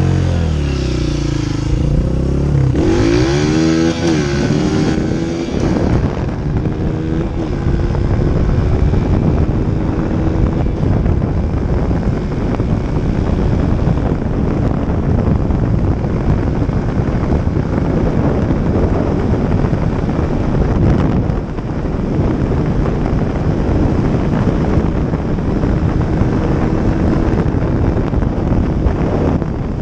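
Dirt bike engine revving up and down for the first few seconds, then running steadily under a heavy rumble of wind on the microphone.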